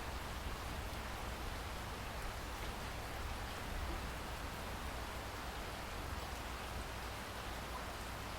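Steady rain falling, an even hiss with a few faint individual drop ticks over a low rumble.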